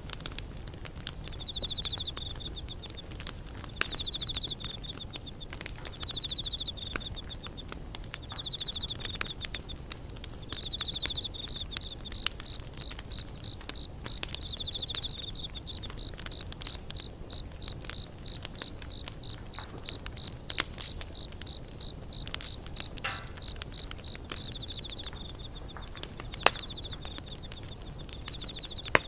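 Night insects calling: repeated pulsed trills about a second long over a steady high tone, with a faster, higher pulsing call joining partway through. Scattered sharp crackles from a wood campfire run under the calls.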